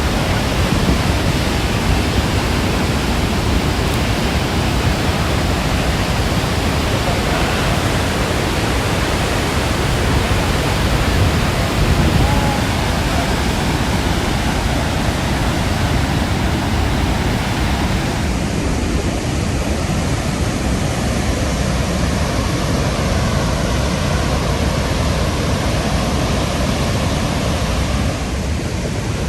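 Dettifoss waterfall: the loud, steady rush of a huge volume of glacial river water plunging into the canyon, heaviest in the low end.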